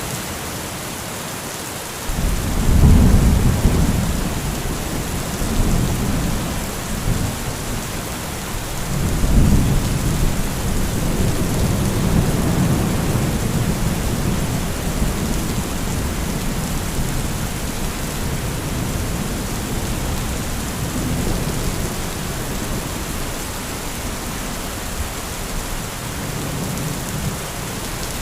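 Heavy rain falling steadily, with rolling thunder. A low rumble rises about two seconds in, swells again around nine seconds, and rolls on more softly after that.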